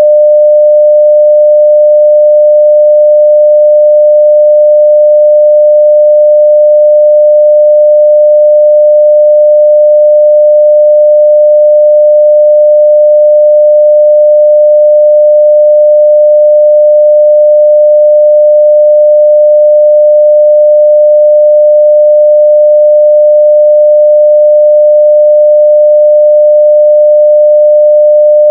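A continuous 600 Hz sine-wave test tone at full level (0 dB), one pure steady pitch that does not change.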